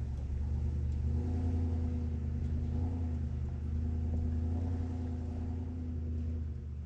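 Vehicle engine running at a steady pitch, a low hum with even overtones, easing off slightly near the end.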